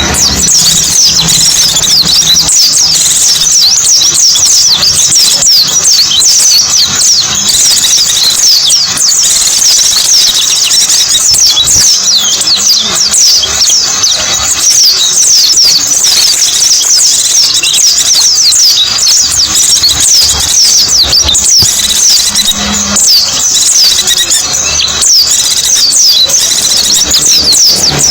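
Pleci white-eye song: a dense, unbroken stream of rapid, high-pitched twittering chirps.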